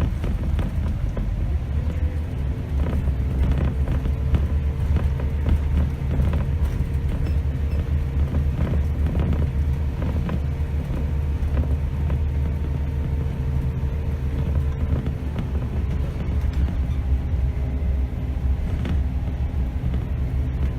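Scania K270 city bus's diesel engine and drivetrain running on the move, heard from the driver's seat as a steady low drone with frequent small rattles and knocks.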